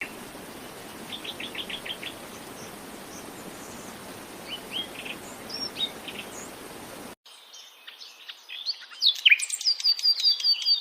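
Pet parrot chirping: a quick run of short chirps about a second in and a few more around the middle, faint over a steady background hiss. After a sudden break, louder rapid chirps and whistled notes follow near the end.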